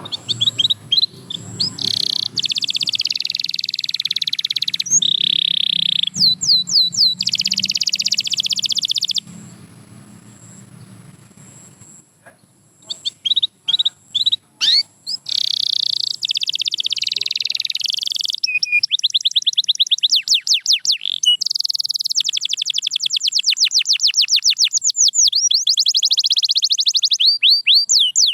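Domestic canary singing: long rolls of rapidly repeated notes and quick sweeping trills, broken by a short pause with a few scattered chirps about a third of the way in, then more long rolls. A faint low hum runs under the first part.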